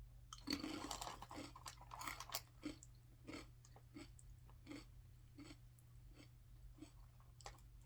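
A person chewing a crunchy chili-seasoned snack close to the microphone, with regular crunching chews about every two-thirds of a second. The chews are louder and crunchier at first, then softer as the mouthful breaks down.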